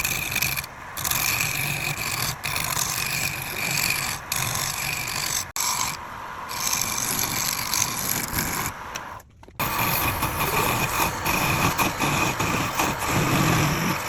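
Wood lathe running while a turning tool cuts the spinning wood: a steady, noisy rasping hiss that drops out sharply twice, about five and a half and nine seconds in.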